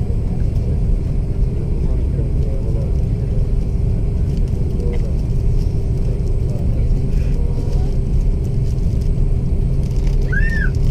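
Airbus A330 cabin noise in flight: the jet engines and rushing air make a loud, steady low rumble with a steady hum underneath.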